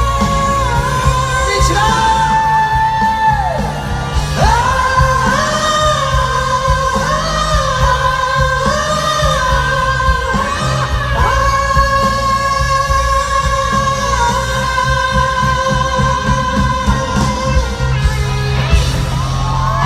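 Live pop-rock concert music in a large arena: high, long-held wordless vocal notes and runs sung over the full band.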